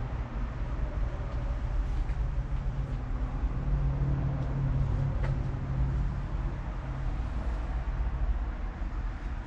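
Steady low rumble of road traffic, with an engine hum that swells and fades around the middle.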